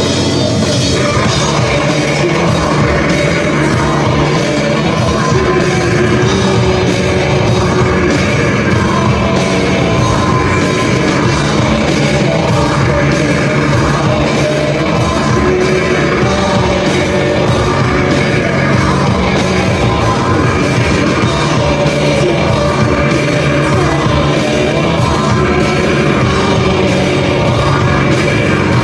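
A live rock band playing loudly, with sung and yelled vocals over the band.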